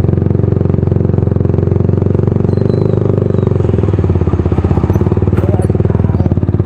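Motorcycle engine running steadily through an aftermarket DBS exhaust pipe that has no silencer, a fast even stream of exhaust pulses.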